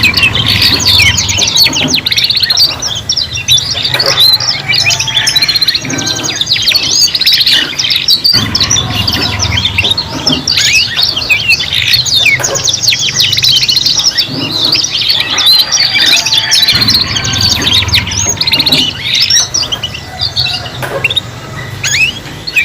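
Several young domestic canaries singing together in a continuous stream of fast trills, rolls and chirps, overlapping one another.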